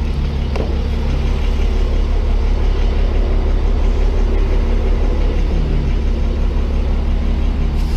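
Tow truck engine running steadily, with a short low pitch slide about midway.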